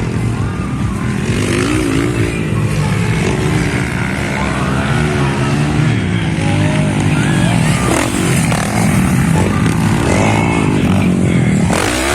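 Several motocross motorcycles running at once, their engines revving up and down as they accelerate and shift, with a pitch sweep near the end as one goes past.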